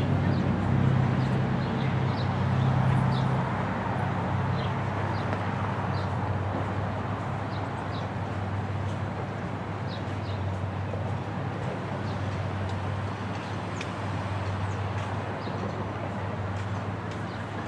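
Low, steady rumble of a departing passenger train's diesel locomotives, slowly fading as the train runs away down the track. Birds give short high chirps every second or so over it.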